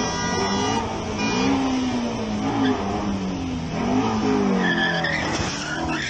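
A Ford Mustang's engine revving up and down repeatedly, with a steady horn tone that stops within the first second and a short high squeal of tyres near the end.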